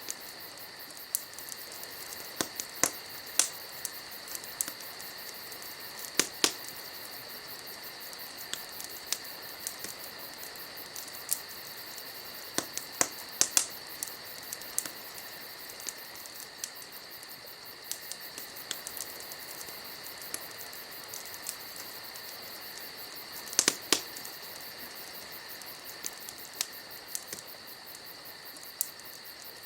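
Wood campfire crackling, with irregular sharp pops scattered throughout and a loud cluster about 24 seconds in. Insects trill steadily in the background.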